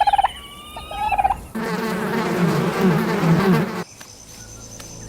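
Jungle wildlife sound effects: short chirping bird calls, then about two seconds of a louder buzzing call whose pitch wavers up and down, fading to quieter jungle ambience near the end.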